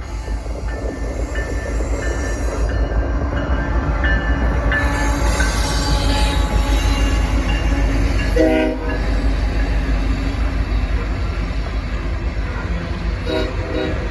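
BNSF coal train running by with a heavy, continuous low rumble and scattered short, high wheel squeals. A short locomotive horn blast sounds about eight seconds in, and a fainter short one comes near the end.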